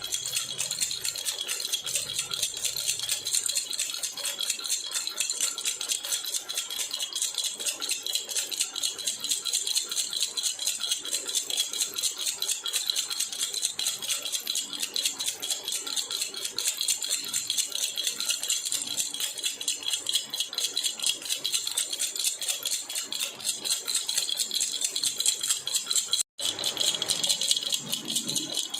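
Jhunjhuna baby rattle shaken steadily, a fast, dense rattling that cuts out for an instant about 26 seconds in.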